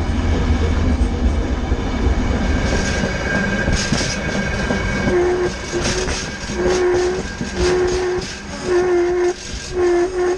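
A train running with a low rumble and clacking, its horn sounding a string of short blasts from about halfway through.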